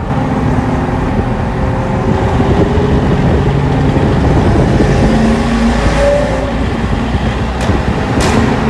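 TVR Chimaera 450's 4.5-litre Rover-based V8 running under load, its note climbing slowly and shifting pitch several times. Two sharp clicks come near the end.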